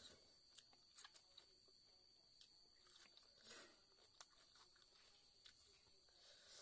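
Faint close-up eating sounds: scattered wet mouth clicks and lip smacks of someone chewing rice and duck meat eaten by hand.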